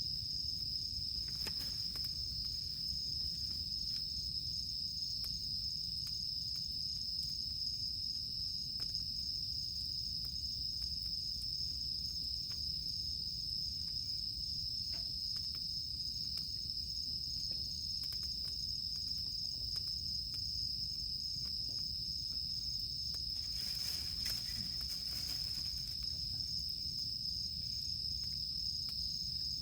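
Steady high-pitched drone of cicadas, with a campfire crackling underneath in scattered small clicks and pops. A brief soft rush of noise swells and fades about three-quarters of the way through.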